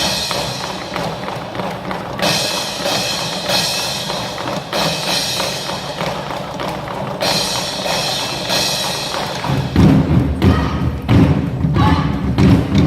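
Nanta percussion troupe drumming along with a recorded backing track. Heavy drum strokes come to the fore and get louder about ten seconds in.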